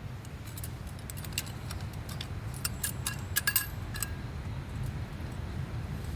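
A run of light clicks and clinks from hard objects being handled, a few with a short ring, clustered in the first two-thirds, over a steady low rumble.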